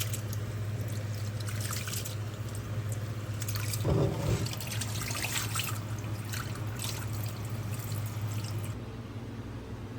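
Liquid sounds, irregular dripping and trickling, over a steady low hum, with a louder short clatter about four seconds in; the dripping stops near the end while the hum continues.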